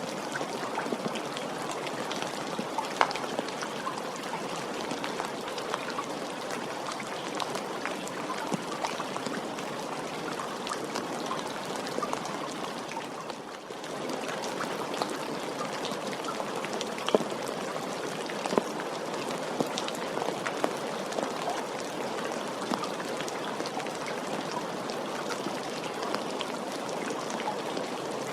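Steady rain falling, a dense hiss with many individual drops pattering and ticking. The level dips briefly about halfway through.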